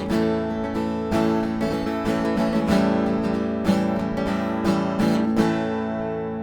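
Acoustic guitar strummed as the song's ending, with the last strum about five and a half seconds in left to ring and fade away.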